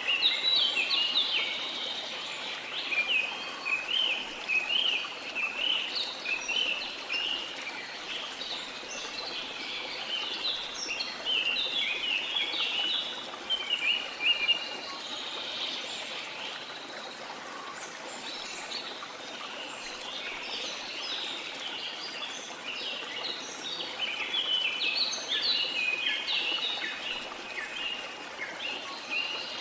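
Many birds chirping and calling in quick, overlapping short notes over a steady rush of falling water; the chirping thins out for a few seconds midway, then picks up again.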